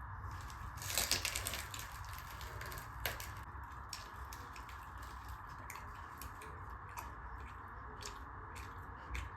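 Close-up eating sounds: wet chewing and lip-smacking clicks while eating tandoori butter roti with dal, most dense and loudest about a second in, over a steady background hum.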